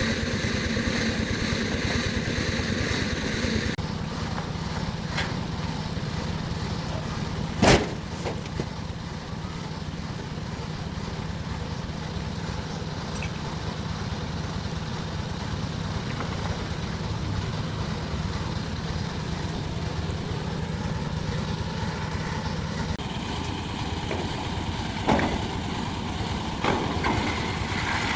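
A motor-vehicle engine running steadily, with one sharp knock about eight seconds in and a couple of lighter clicks near the end.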